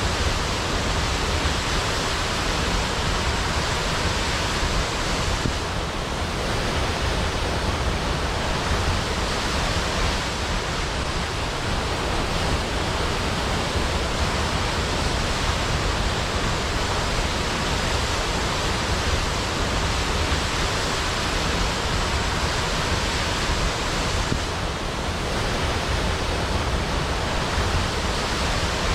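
Large waterfall cascading into a pool: a steady, dense rush of falling water, easing slightly for a moment twice.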